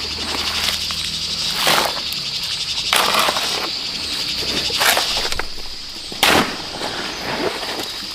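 Steady high-pitched insect chorus, with four short sharp scraping or knocking strokes about a second and a half apart, the loudest about six seconds in.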